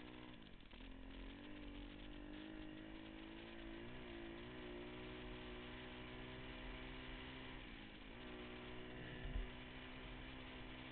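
Pit bike engine running at steady revs. The revs dip briefly about half a second in and again about eight seconds in, then climb back. There is a short thump about nine seconds in.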